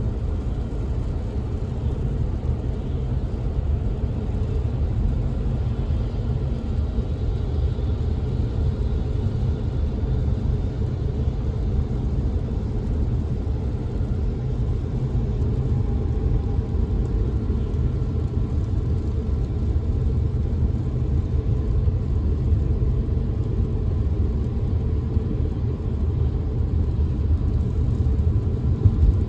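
Steady low rumble of a car driving on a wet road, heard from inside the cabin: road and engine noise with a faint hiss above it.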